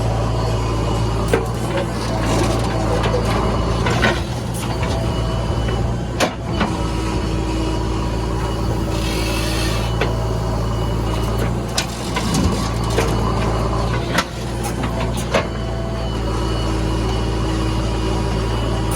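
JCB 3DX backhoe loader's diesel engine running steadily under working load, with scattered knocks and clanks and a short hiss about nine seconds in.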